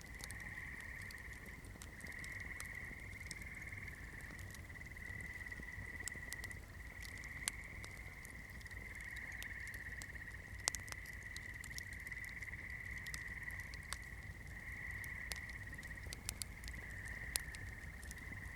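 Campfire crackling, with scattered sharp pops from the burning wood, a few louder ones standing out. Under it runs a steady high-pitched drone that shifts slightly in pitch every second or two.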